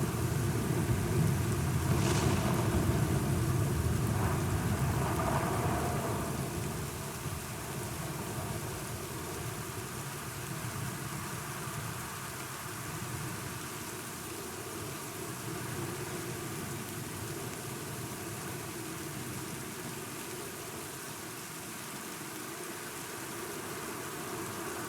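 Steady rain with a roll of thunder rumbling through the first few seconds, a brief crackle about two seconds in, then dying away about six seconds in to leave the rain alone.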